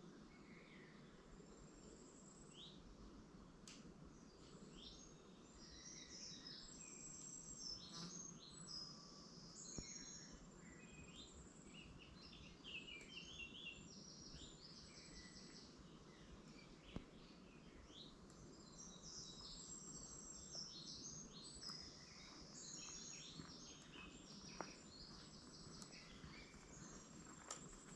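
Faint birdsong: several birds chirping and trilling in short, overlapping phrases over a low, steady background hiss.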